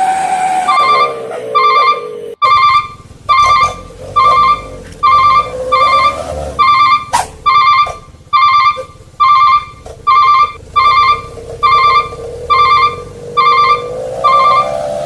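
Electronic beeping from a toy truck's sound unit: a short pitched beep repeated about every half to two-thirds of a second, over a steady whining tone that dips and rises slowly. The sound breaks off abruptly for an instant about two seconds in.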